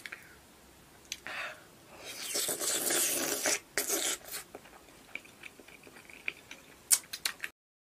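Close-miked wet chewing and lip smacking of a soft-centred marinated egg with a runny yolk, loudest from about two to four and a half seconds in. A few sharp clicks come near the end, and then the sound cuts off suddenly.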